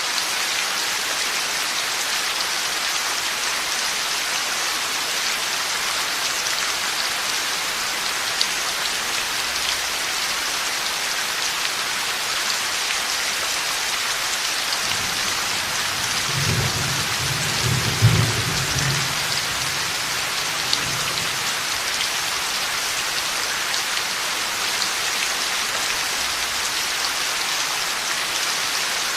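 Heavy rain falling steadily, with a low rumble of thunder a little past the middle that swells to a sharp peak and dies away over a few seconds.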